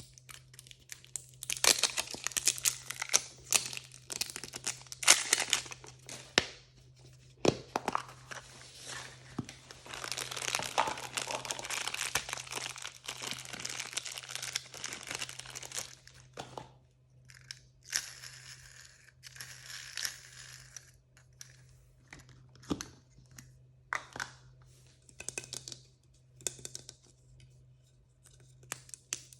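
Blind-bag packaging crinkling and being torn open by hand, in irregular bursts with short pauses between them.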